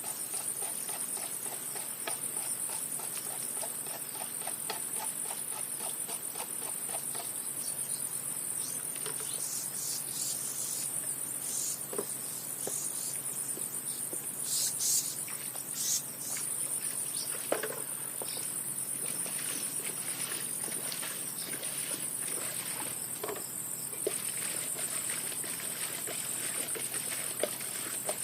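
A steady, high-pitched chorus of crickets or similar insects, with scattered faint clicks and taps and a couple of brief louder rustles about halfway through.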